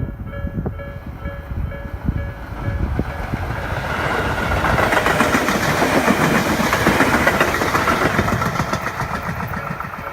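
Japanese level-crossing warning bell ringing in a fast repeating pattern while a Tobu Tojo Line electric train passes through the crossing. The train's rumble and wheel clatter build from about two seconds in, are loudest in the middle and fade near the end, partly covering the bell.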